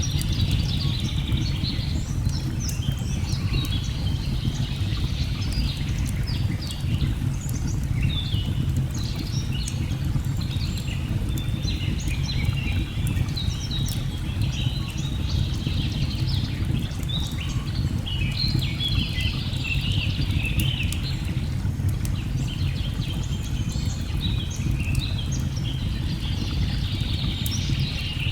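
A steady low rush of a waterfall with many birds chirping and singing over it throughout, and the light crackle of a log fire in scattered sharp clicks.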